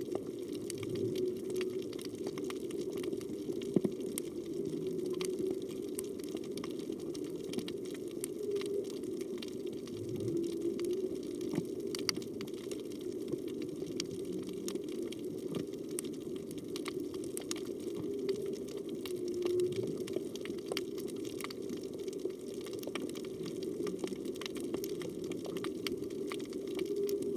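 Humpback whale song heard underwater: wavering held moans and low calls that sweep in pitch, recurring every several seconds, over a steady wash of water noise and scattered sharp clicks.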